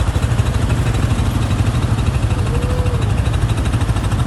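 An engine running steadily with an even, rapid low pulse, with a faint brief tone about halfway through.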